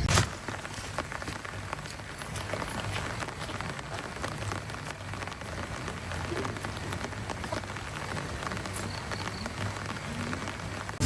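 Steady rain falling on a surface, with many small drop ticks over a faint low hum.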